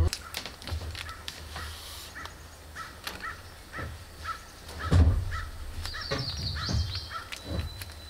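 Birds calling: a string of short calls repeated every few tenths of a second, with a quick run of higher chirps about six seconds in. A loud low thump about five seconds in, with small clicks of handling scattered through.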